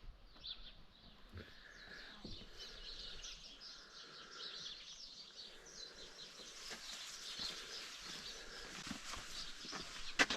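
Faint chorus of birds chirping and singing, many short calls overlapping, with a couple of sharp clicks near the end.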